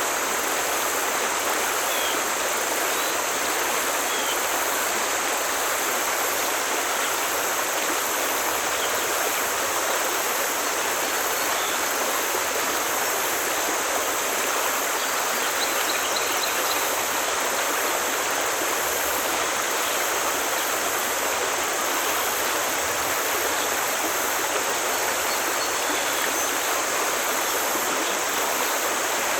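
Forest stream flowing steadily: a continuous, even rush of running water.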